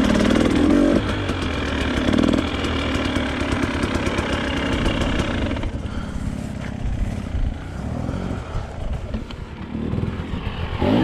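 Off-road trail motorcycle engine running as the bike is ridden along a rough lane. The noise eases a little about six seconds in.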